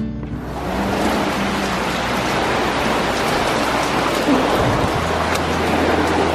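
Heavy rain really coming down, a dense steady hiss that swells up within the first second as the outdoors opens up to the microphone.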